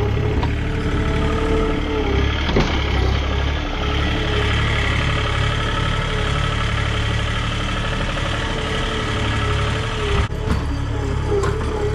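Farm machinery engine running steadily at a low, even speed, with a wavering whine above the rumble.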